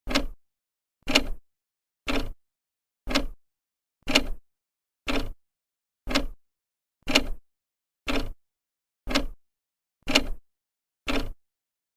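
Old clock ticking steadily as its second hand steps, one sharp tick a second, each with a brief ringing tail.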